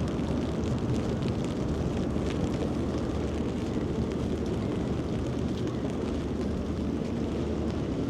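A steady low engine rumble with a faint hum.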